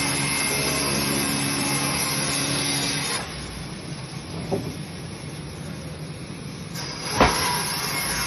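42-inch industrial bandsaw running with a steady motor hum. About three seconds in the sound drops to a quieter hiss, a sharp knock comes about seven seconds in, and then the steady hum returns.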